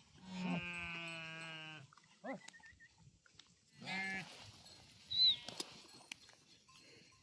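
Livestock bleating: one long, wavering bleat near the start and a shorter one about four seconds in. Just after five seconds comes a short high chirp and a sharp click.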